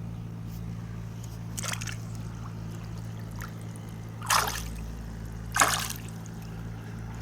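Short water splashes from a tilapia tethered on a line in the water. There is a faint splash near two seconds in and two louder ones about four and a half and five and a half seconds in, over a steady low hum.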